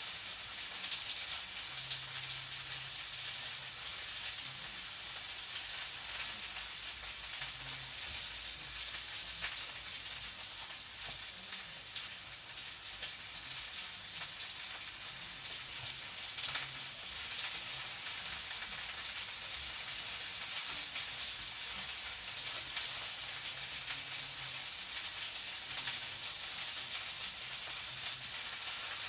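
Food frying in a pan: a steady sizzle with many fine crackles.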